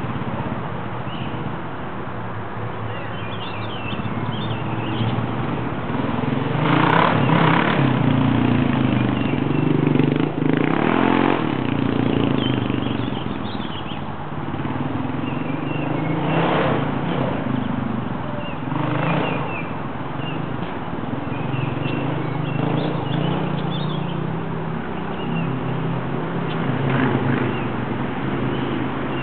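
Single-cylinder four-stroke dual-sport motorcycles riding laps on dirt. The engines run and rev, their pitch rising and falling with the throttle. Short noisy bursts come several times.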